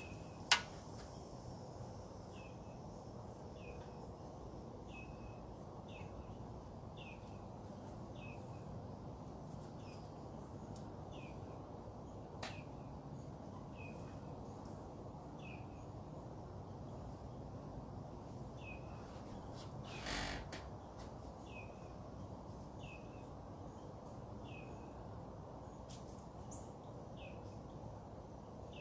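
A bird giving a short, falling chirp over and over, about one a second, over a steady low background hum. A sharp click sounds just after the start, and a brief rustling burst comes about two-thirds through.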